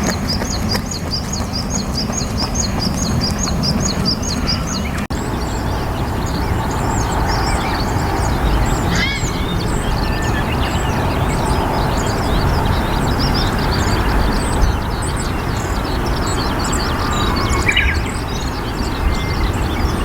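Wild birds calling outdoors: a fast series of repeated high chirps, about three or four a second, stops abruptly about five seconds in. Many scattered high chirps and a few louder calls follow over a steady low rumble of wind or moving water.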